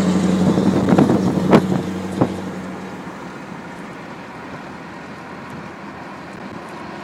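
Scania V8 truck engine on an open, straight-through exhaust running loud, with three sharp cracks about one, one and a half and two seconds in. After about two and a half seconds the sound drops to a quieter, steady rumble.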